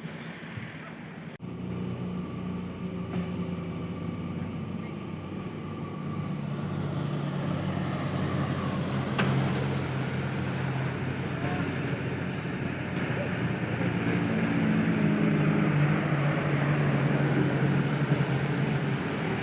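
Old truck's engine running steadily and growing gradually louder, its pitch shifting a little as the revs change.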